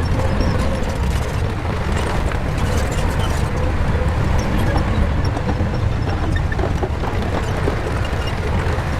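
Shantui bulldozer's diesel engine running steadily under load, with scattered clanks from the machine.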